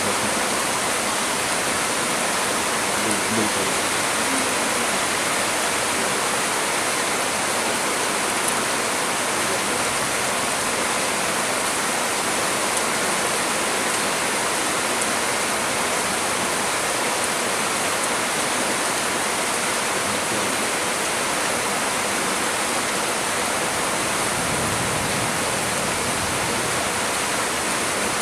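Heavy storm rain pouring steadily on trees, an even, dense hiss with no breaks.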